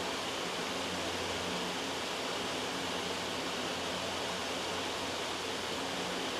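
Loud, steady white-noise hiss spread evenly from low to high, with no change.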